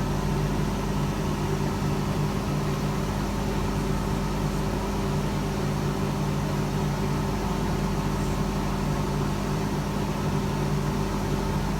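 IKE heat pump dryer running, a steady machine hum with fan noise that does not change.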